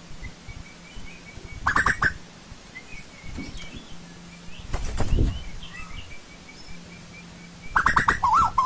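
Asian koel calling: a short loud call about two seconds in, then a loud run of rapid, wavering bubbling notes starting near the end. A faint quick series of high notes runs through the middle, with a brief noisy burst about halfway.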